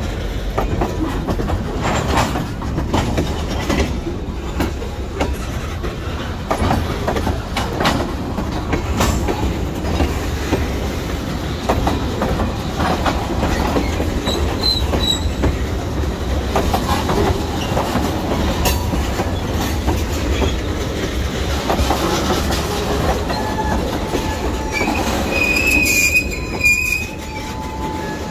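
Freight train tank cars rolling past close by: a steady rumble of steel wheels on rail with repeated clicks as the wheel sets pass over the rail joints and crossing. A brief high wheel squeal comes in near the end.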